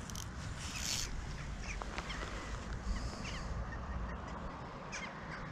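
A few short, faint bird calls, each falling in pitch, over a low steady rumble.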